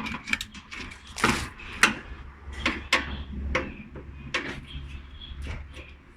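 Irregular clicks and knocks of hands and tools working on the metal casing of an air conditioner's outdoor unit, getting at the compressor's terminals.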